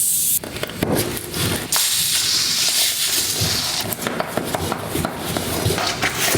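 A tubeless bicycle tire being worked off its rim by hand: irregular clicks and knocks from the tire and rim, with a short hiss at the start and a longer hiss about two seconds in.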